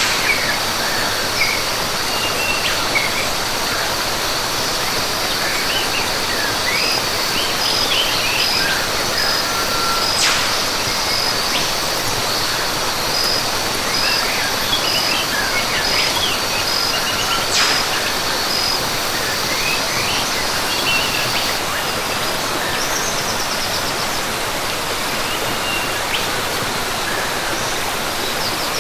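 Rainforest ambience: a steady rush of falling water under scattered short bird chirps and a high, steady insect tone that pulses for a stretch in the middle and stops about two-thirds through. Two brief sharp clicks stand out in the middle.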